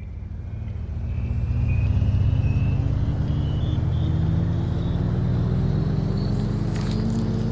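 An engine-like drone that fades in and rises slowly and steadily in pitch, as of a motor speeding up.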